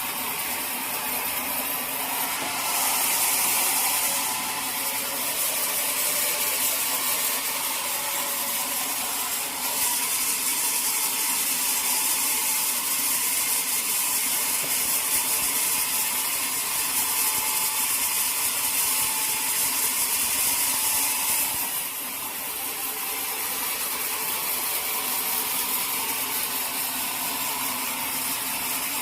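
Sawmill saw cutting through a teak log, the machinery running steadily throughout. The cutting noise brightens briefly about three seconds in, then again from about ten seconds to twenty-one seconds in.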